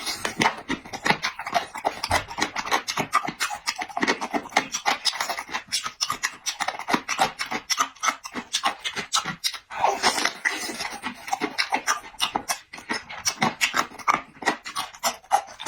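Close-miked eating sounds: steady chewing with many quick wet lip smacks and mouth clicks, several a second, as a person eats a mouthful of meat and noodles.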